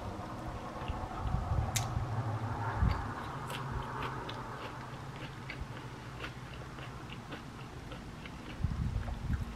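Close-up chewing of a mouthful of toasted French bread sandwich with lettuce, pickles and onion: irregular soft jaw thumps with many small crunches and wet mouth clicks.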